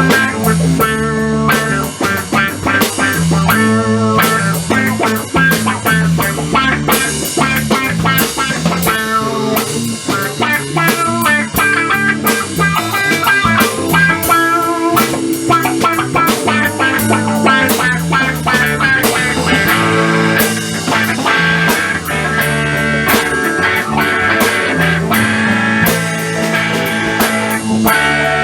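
Instrumental rock music, electric guitar over bass and a drum kit, with no singing.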